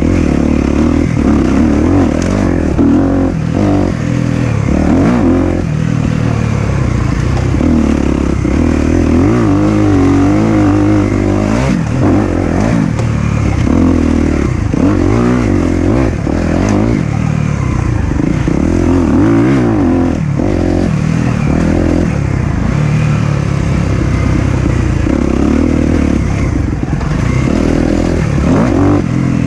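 Four-stroke single-cylinder dirt bike engine riding a trail, the throttle opened and closed again and again so the engine note keeps rising and falling.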